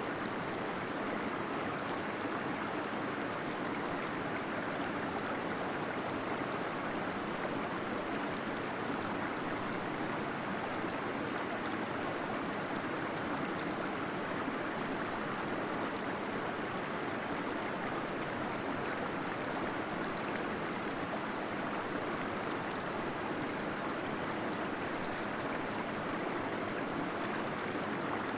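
Small waterfall splashing steadily into a pool inside a cave: an even, unbroken rush of falling water.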